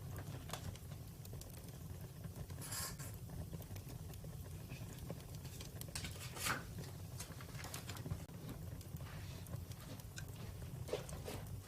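Campfire crackling: scattered pops and snaps over a steady low rumble, with two louder pops about three and six and a half seconds in.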